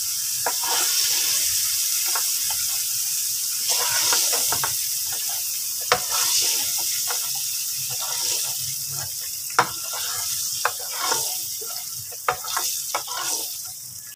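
Petai beans sizzling in hot oil in a nonstick frying pan, a steady hiss, while a spatula stirs and scrapes against the pan, with sharp clicks about six and nine and a half seconds in.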